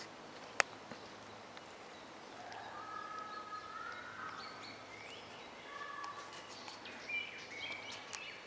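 A black woodpecker's bill strikes the wood at the base of a pine once, a single sharp knock about half a second in, with a few faint taps later. From a couple of seconds in, other birds sing in the background.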